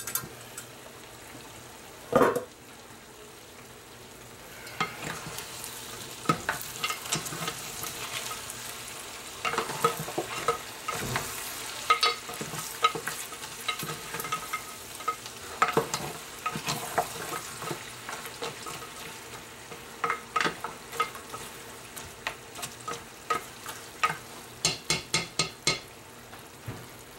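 Goat meat sautéing with onion, garlic and ginger in a stainless steel pot, sizzling while a spoon stirs and scrapes through it. The pot lid clanks about two seconds in, and a quick run of light knocks comes near the end.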